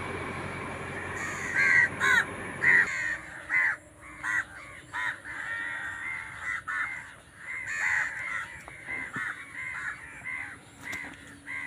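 Birds calling over and over with short, harsh calls, several a second at times, loudest about two seconds in. A low rumble underneath cuts off about three seconds in.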